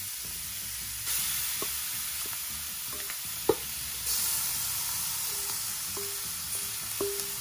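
Curry-seasoned chicken wings sizzling as they fry in hot oil in a stainless steel pot. The sizzle jumps up about a second in and again about four seconds in as more wings go into the oil, with a few sharp clicks and some short, repeated tones near the end.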